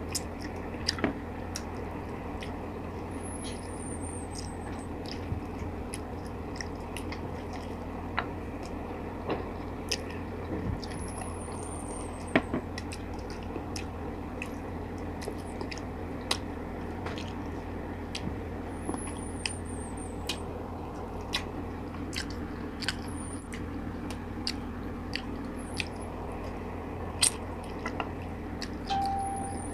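Close-miked chewing and wet mouth clicks of someone eating adobo chicken feet off the bone with her fingers. Scattered sharp smacks come over a steady low hum.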